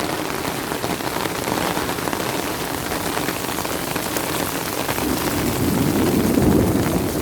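Steady rain falling and pattering on surfaces. A low rumble swells up about five seconds in and fades again near the end.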